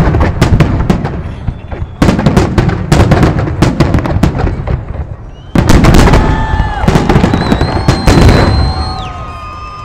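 Fireworks salute: volleys of rapid, crackling bangs, with a fresh volley starting about two seconds in and another about five and a half seconds in. Several long whistles sound over the bangs in the second half.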